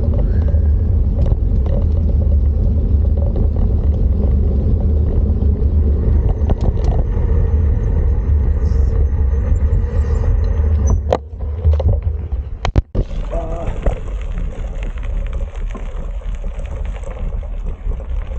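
Steady low rumble of wind and road noise on a camera carried on a moving bicycle, with a few sharp clicks and a brief drop-out a little past the middle.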